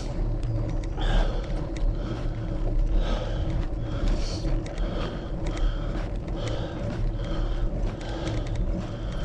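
Wind rumbling on the microphone of a moving bicycle, with the rider's breathing coming about once a second.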